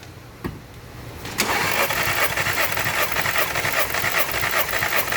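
Starter motor cranking a 2012 VW Passat's 2.0 TSI four-cylinder engine over with all its spark plugs removed, for a compression test, so it spins without firing. A single click comes about half a second in, and the even, pulsing cranking starts abruptly about a second and a half in.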